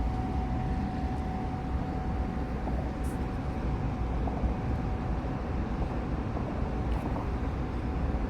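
Diesel bus engine running steadily, a low rumble with a thin steady whine above it.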